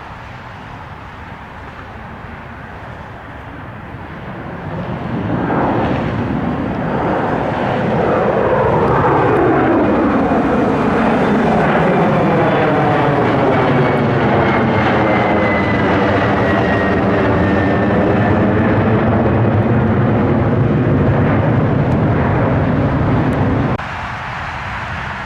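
Airplane passing close by, its engine noise building from about four seconds in and holding loud, with a high whine that falls in pitch as it goes past. The sound cuts off abruptly near the end.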